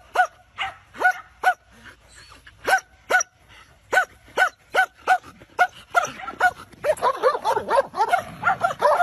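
A dog barking in short, high yaps, about two a second, coming faster and overlapping near the end.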